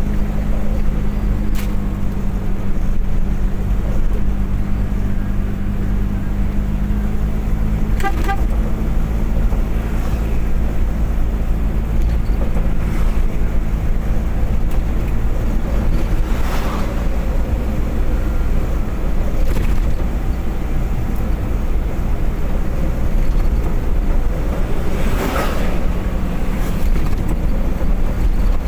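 Steady drone of a car's engine and road noise heard from inside the moving car, with other vehicles passing now and then, two of them louder about halfway and near the end, and a horn sounding.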